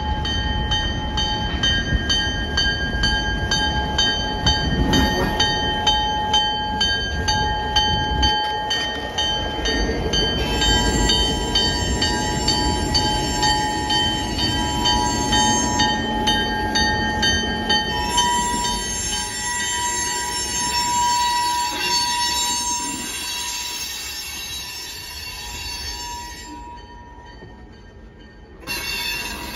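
Diesel locomotive CN 4131 rumbles slowly past over a street crossing, followed by tank cars clanking over the rails, while a crossing bell rings steadily at about two to three strikes a second. Partway through, the wheels give a drawn-out squeal, and the rumble fades as the locomotive moves off.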